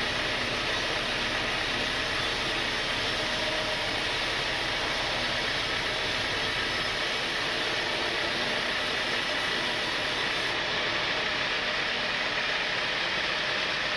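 Sawmill machinery running steadily, an even mechanical hiss and hum with no breaks or changes in level.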